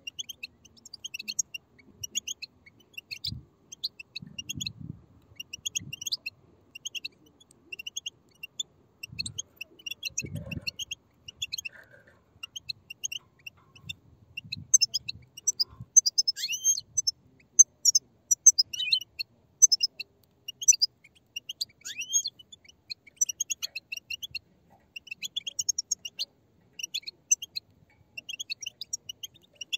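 A group of young European goldfinches making rapid, high-pitched begging chirps, many birds at once, with a few sliding calls after the middle. A few soft low thumps sound in the first half.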